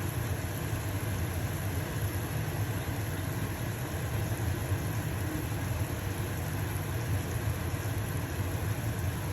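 Stove-top range hood fan running with a steady low hum, over the fine, even sizzle of a pancake frying in a pan.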